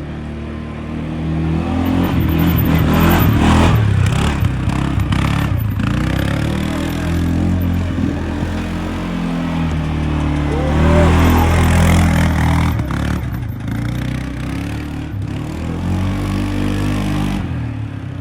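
Motorcycle engines running and revving, growing louder twice, about two seconds in and again near the middle.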